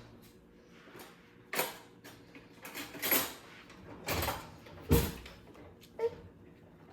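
Kitchen handling noises while a salad is being made: about five short knocks, scrapes and rustles, the loudest a dull knock near the five-second mark.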